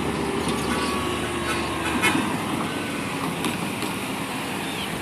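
Road traffic driving past: a steady noise of cars and trucks, with a faint engine note that falls slightly in pitch near the start.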